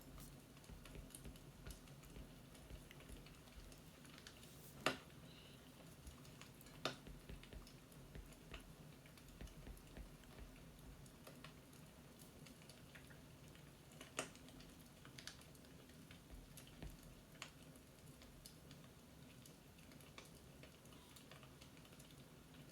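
Faint, irregular light clicks and taps over a low steady hum, with a few sharper clicks about five, seven and fourteen seconds in.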